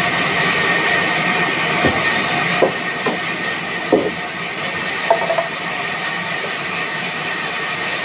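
Woodworking machinery running with a steady noise, with several short knocks in the first part, about two to five seconds in.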